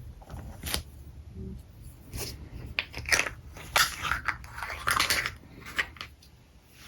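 Drawing tools worked against paper: irregular scratchy strokes with a few sharp clicks, loudest in the middle seconds.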